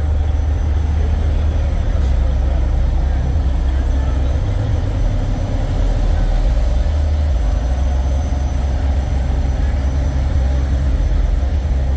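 Diesel semi-truck engines idling, a steady low rumble.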